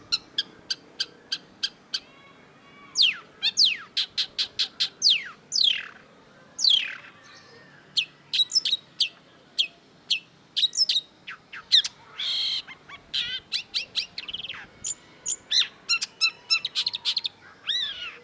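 Long-tailed shrike singing a rapid, varied song of sharp chips and quick downward-sweeping whistles. A short harsh rasp comes about twelve seconds in, and fast runs of repeated notes come near the end.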